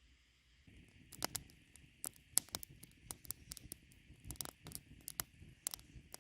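Irregular sharp ticks and taps, several a second, starting about a second in, over a faint steady high hiss.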